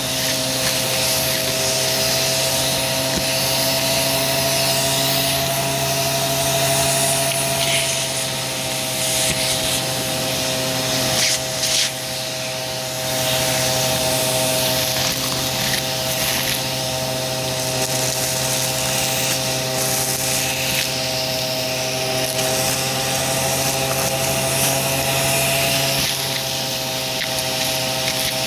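Aspiron vacuum cleaner running steadily with a held motor whine and rushing air, with scattered crackles of crunchy debris being sucked up.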